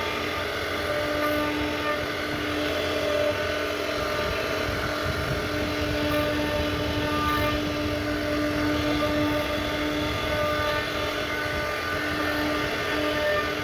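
CNC router spindle running with a steady whine while carving wood, the tone swelling and fading a little as the cut changes.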